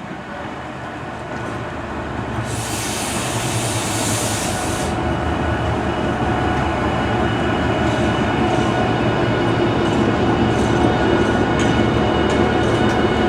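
Pair of Class 68 diesel-electric locomotives running, their engine and wheel noise growing steadily louder as they approach. About two and a half seconds in there is a two-second burst of high-pitched noise from the train.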